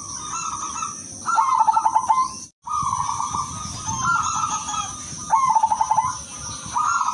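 Silver-morph zebra dove (perkutut) cooing: about six stuttering, pulsed coo phrases around one pitch, roughly one a second. The sound cuts out for an instant about two and a half seconds in.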